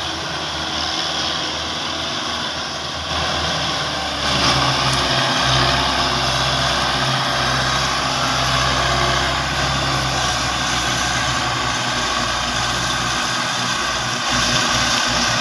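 Tractor diesel engine running steadily while pulling a trolley. It gets louder about four seconds in, with another small rise near the end.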